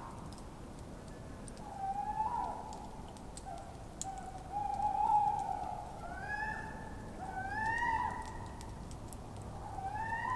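Tawny owls calling: wavering hoots and rising, squeal-like calls repeat and overlap every second or so. Faint crackles from a campfire sound in the background.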